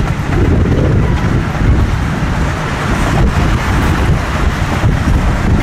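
Wind buffeting the microphone, with a loud, steady low rumble throughout.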